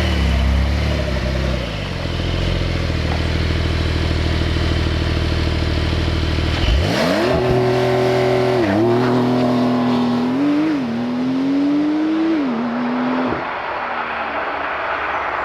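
Porsche 911 Targa 4 GTS (992) twin-turbo flat-six running steadily at low revs, then accelerating hard about seven seconds in, its note climbing quickly. It pulls through three upshifts, each a sudden drop in pitch, before the throttle lifts and the sound eases off near the end.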